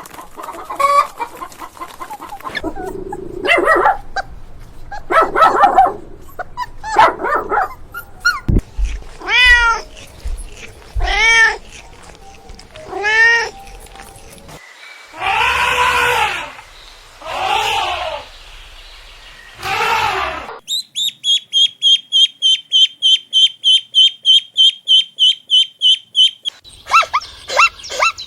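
Domestic cat meowing and yowling, several separate calls, followed by a fast, high-pitched chirping trill that repeats evenly for several seconds.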